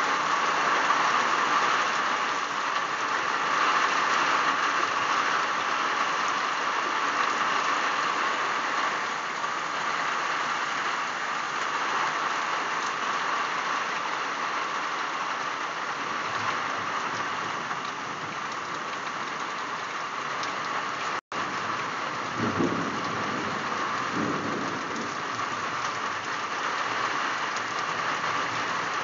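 Heavy rain pouring down in a steady, dense hiss. About two-thirds of the way through, the sound cuts out for an instant, and a brief low rumble follows.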